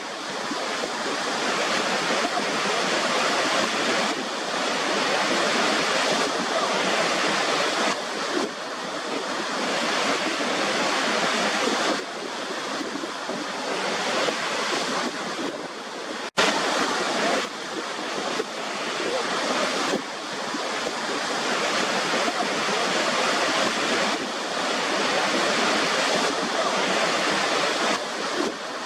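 Waterfall rushing in a continuous dense roar of falling water, swelling and easing slightly every few seconds. It cuts out for an instant about halfway through, then carries on.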